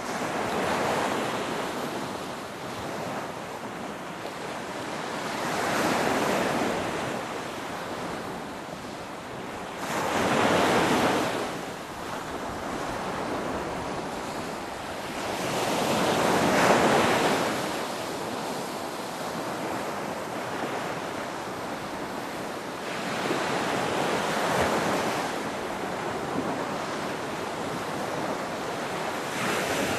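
Ocean waves breaking and washing in, a steady rush of surf that swells every five or six seconds, the loudest wave about halfway through.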